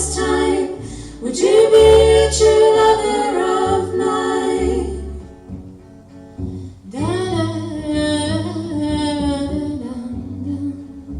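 Live song: a voice singing two long, drawn-out phrases over a low accompaniment, with a short break about six seconds in.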